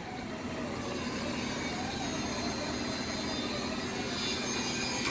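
Tuck-away liftgate on a box truck lowering: a steady mechanical hum with a faint wavering whine.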